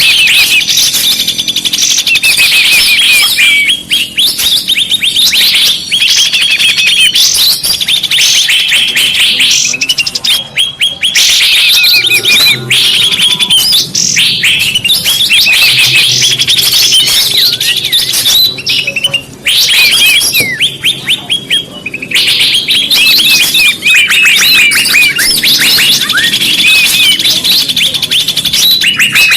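Bird-trapping lure recording: a dense chorus of many small birds chirping and twittering in rapid, overlapping calls, with a few brief lulls.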